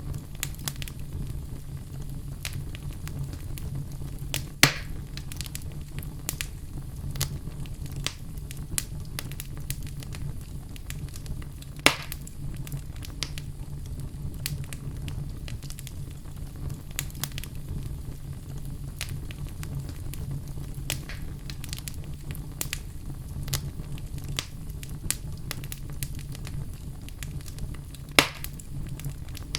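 Log fire crackling: a steady low rumble of flames under a constant scatter of small crackles, with three sharp, louder pops from the burning wood spread through the stretch.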